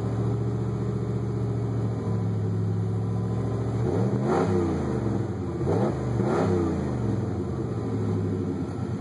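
1995 Chevy K1500's 355 small-block V8 idling through Cherry Bomb mufflers. The throttle is blipped twice, about four and six seconds in, and each time the revs rise and fall back to idle.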